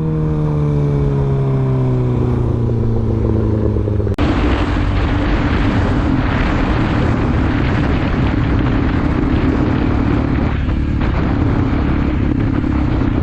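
A motorcycle engine note falling steadily in pitch as the bike slows. About four seconds in it cuts abruptly to a motorcycle riding at steady speed, its engine note constant under wind and road noise.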